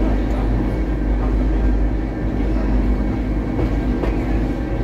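Electric rack-railway train of the Corcovado line running downhill: a steady rumble from the train with a constant low hum over it.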